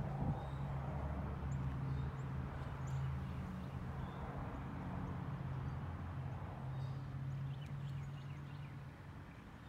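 1971 Corvette's LS5 454 big-block V8 idling with a steady, even low rumble, growing quieter near the end.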